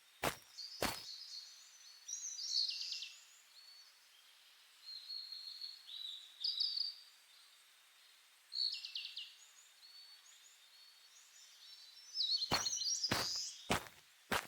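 Two footsteps, then a pause in walking during which birds give short chirping calls several times; walking footsteps resume about twelve seconds in.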